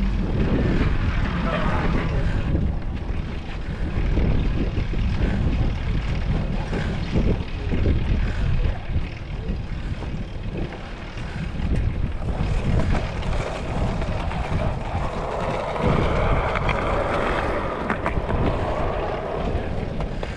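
Wind buffeting the microphone of a camera carried on a moving bicycle: a rough, uneven low rumble, with a louder, higher rushing swell for a few seconds near the end.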